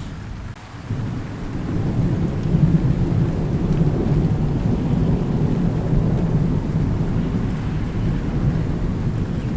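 Thunder rolling in a rainstorm: a low rumble swells about a second in and carries on, over the steady hiss of rain.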